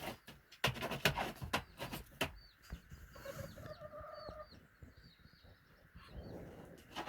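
Several sharp knocks and taps in the first couple of seconds, then a hen gives a drawn-out call of a little over a second; faint chirps of small birds sound in the background.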